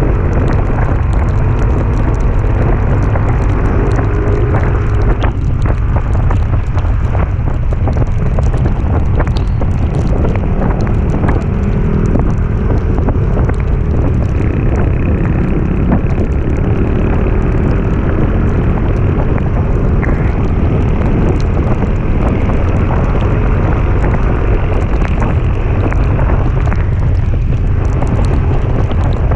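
Wind buffeting the microphone of a moving vehicle on the climb, with its engine running underneath as a steady low rumble.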